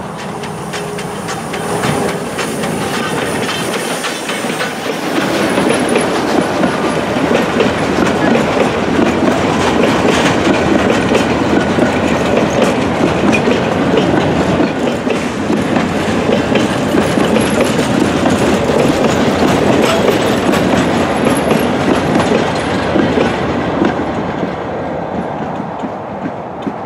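A small steam locomotive and its wooden coaches pass close by: wheels click over the rail joints and the coaches rumble along. It gets louder about five seconds in and fades near the end as the train moves away.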